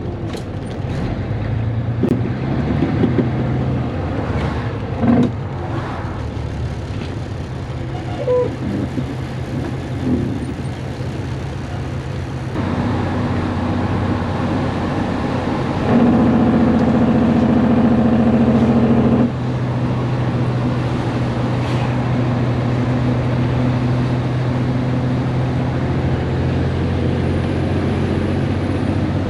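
Caterpillar C10 inline-six diesel in a Peterbilt 362 cabover, running through a straight pipe with the muffler removed, pulling steadily on the road. The engine note grows louder for about three seconds past the middle, with a few light knocks in the first half.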